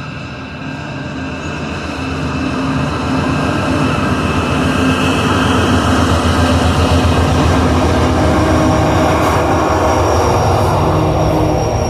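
A train passing close by, its engine rumble and rolling noise growing louder over the first few seconds and then holding steady. A thin high squeal, typical of wheels on rail, comes in near the end.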